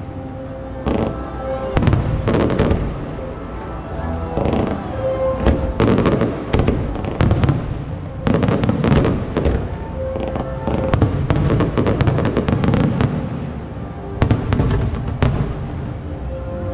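Aerial fireworks shells bursting in quick succession, dozens of sharp bangs throughout, with music playing underneath.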